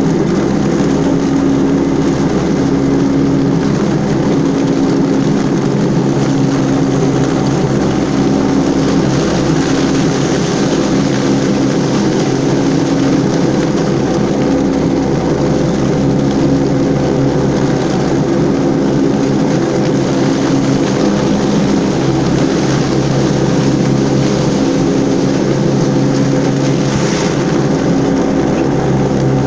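Toro 3500-D Sidewinder rotary mower's diesel engine running steadily under load with its cutting blades engaged, mulching leaves, alongside the rush of the spinning blades. It runs on a freshly replaced fuel filter, fitted because the engine had been starving for fuel.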